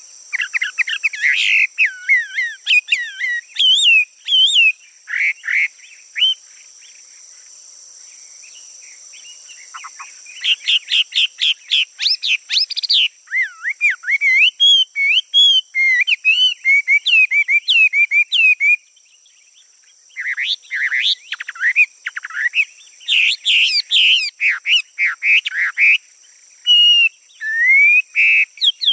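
A male songbird singing loud, clear phrases of fast sweeping and warbling notes, with two pauses of a few seconds. A steady high-pitched insect-like whine runs underneath.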